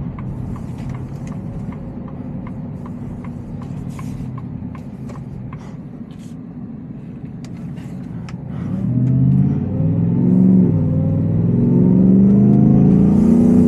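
Supercharged 5.0-litre V8 of a Shelby F-150 Super Snake, heard from the cab, running at low speed with a steady rumble and a light ticking about three times a second. About eight and a half seconds in, the throttle opens and the engine revs up, rising in pitch and getting much louder as the truck accelerates.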